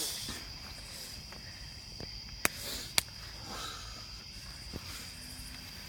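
Crickets chirping steadily in the night, with two sharp clicks about half a second apart near the middle.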